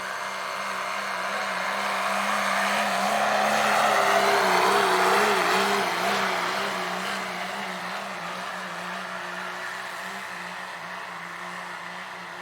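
Diesel pickup truck in the 2.6-inch-turbo pulling class, its engine running hard under full load as it pulls the sled down the track. It grows louder over the first four seconds or so as it passes, then slowly fades.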